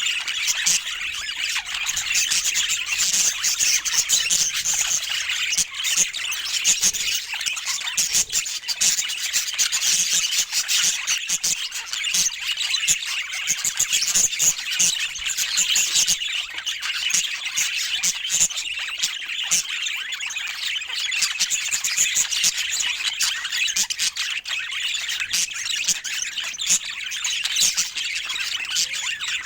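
Budgerigars chattering steadily: a continuous stream of high chirps, squawks and quick clicks.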